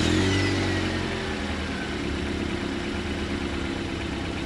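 Car engine just after firing up, its revs falling over the first couple of seconds and settling into a steady idle.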